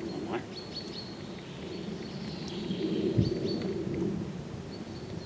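Small birds chirping, a scattering of short high calls over a steady low background noise, with one soft knock about three seconds in.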